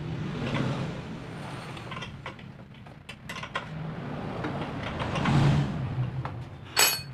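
A motor vehicle engine running, swelling louder twice, with scattered clicks and one sharp metallic clatter near the end.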